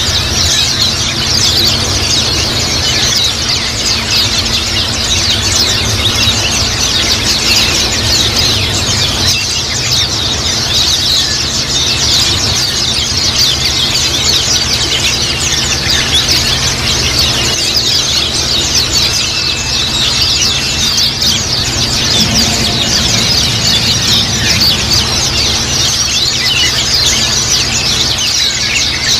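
A flock of white-eyes (pleci) chattering: a dense, unbroken mass of quick, high chirps with a steady low hum underneath.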